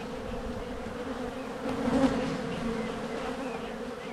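Honey bees from an opened hive buzzing: a steady hum of many bees.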